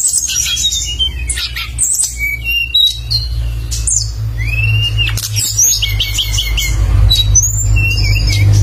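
A songbird singing continuously in quick, varied phrases of sharp chirps, whistled sweeps and rapid trills, over a steady low hum.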